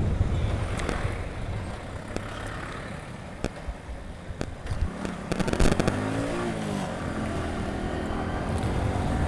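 Motorcycle engine running under way, with a low rumble throughout; a few sharp knocks come in the middle, then the engine revs up and eases back and settles to a steady note.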